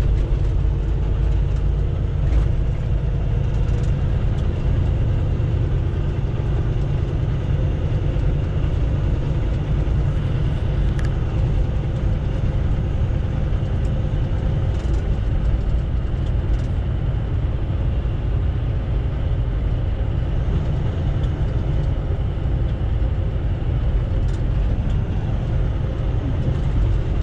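Semi truck heard from inside the cab while driving: a steady low rumble of the diesel engine and road noise.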